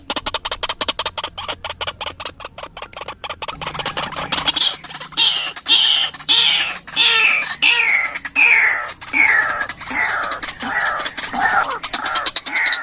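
White-breasted waterhen (ruak-ruak) calling. A rapid run of clicking pulses gives way, about four seconds in, to loud, harsh calls repeated about twice a second, each falling in pitch.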